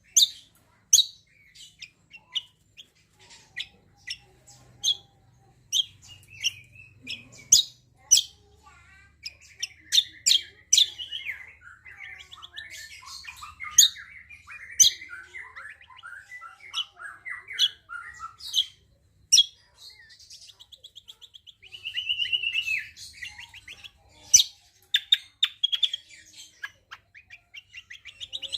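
A kecial kombo (cucak kombo) singing: a long run of sharp, high chirps mixed with fast warbling twitters. About two-thirds of the way through there is a quick buzzy trill.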